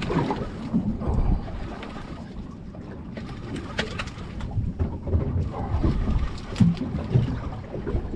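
Wind buffeting the microphone and water moving against a small boat, with a few light knocks near the middle.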